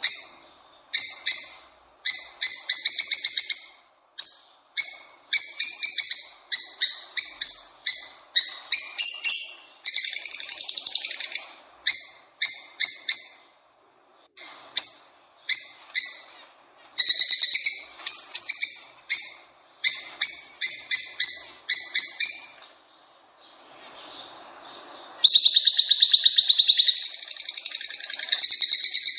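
Songbird singing, a busy run of quick chirps and rapid trilled phrases, with a brief lull near the end before a loud, long trill.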